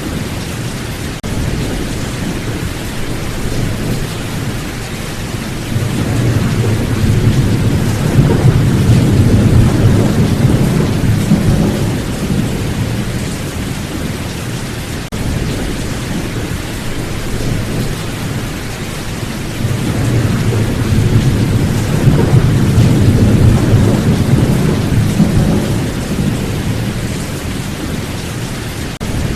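Steady heavy rain with rolling thunder: two long, low rumbles swell and fade, one starting about a fifth of the way in and another about two-thirds of the way through.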